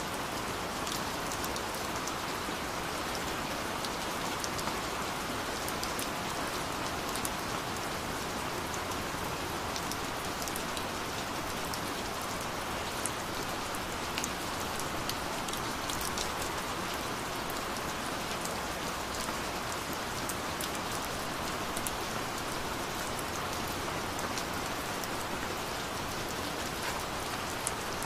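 Gentle rain falling steadily, with scattered individual drops ticking sharply through it.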